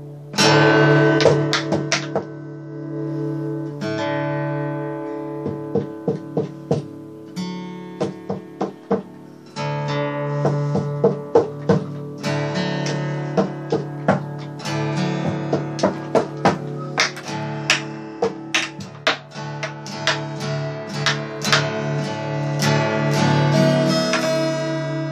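Guitar being played, with strummed chords and picked notes ringing out over sustained low notes.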